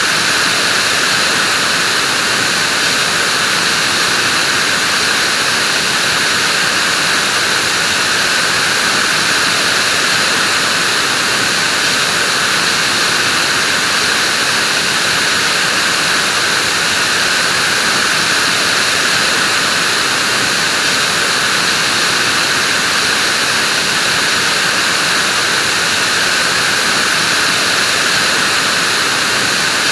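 Vacuum cleaner running steadily: an even, unchanging hiss-like rush centred in the upper-middle range, with no change in speed.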